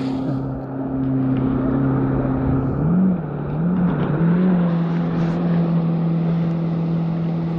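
A motor engine running at a steady hum over rushing water and wind noise. About three seconds in its pitch wavers a couple of times, then settles a little higher, as if the engine were throttled up.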